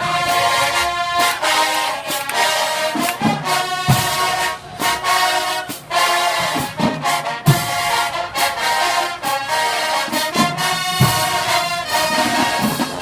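High school marching band's brass section playing a melody at full volume, with bass drum hits marking the beat.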